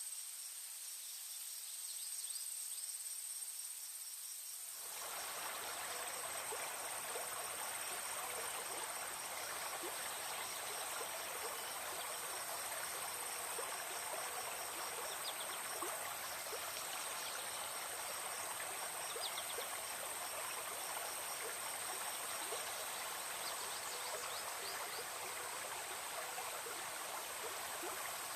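Forest ambience: insects keep up a steady high-pitched buzz and a fast, even chirping, and about five seconds in the rushing of a flowing stream comes in suddenly and continues.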